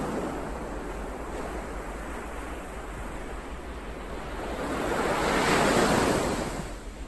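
Ocean surf: a steady wash of waves, with one wave swelling up and breaking about five seconds in, then receding near the end.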